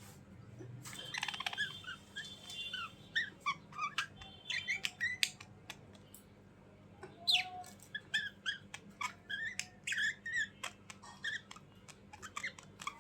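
A bird calling in quick runs of short chirps and squawks that slide up and down in pitch, with sharp clicks between them and a brief lull about halfway through.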